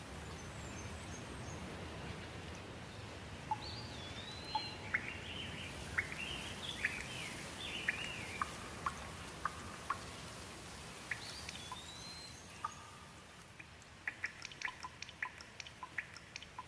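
Steady rainfall with a songbird singing whistled, gliding phrases and short chirps over it. Near the end the rain noise drops away, leaving scattered sharp drips.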